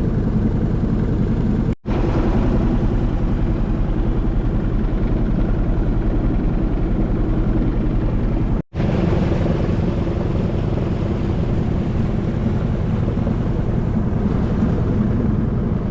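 Sailboat's inboard engine running steadily at cruising speed under way, a constant low drone, broken twice by split-second cuts.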